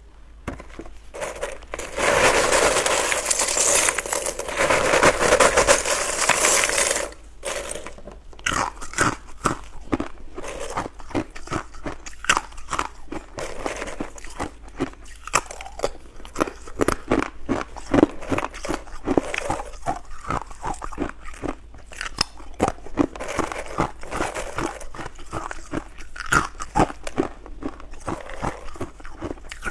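Ice being bitten and chewed close to the microphone: many sharp, irregular crunches, several a second. About two to seven seconds in, a louder, dense run of ice clattering comes before the chewing.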